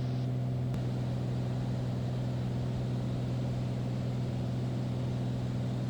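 Single-engine piston engine and propeller of a Beechcraft Bonanza droning steadily under climb power, one constant low pitch with no change in speed.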